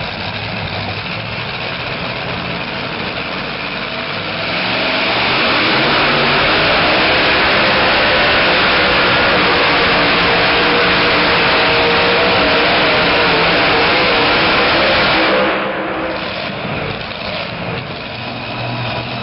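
Super modified two-wheel-drive pulling truck's engine at full throttle, hauling the sled down the track. It steps up to its loudest about four seconds in, holds there for about eleven seconds, then drops away suddenly as the throttle is let off.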